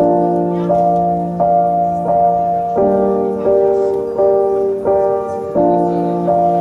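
Background piano music: sustained chords struck in an even rhythm, about one every 0.7 seconds.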